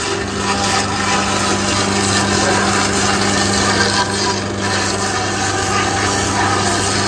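Sawmill machine running steadily, a constant low hum under an even noisy wash.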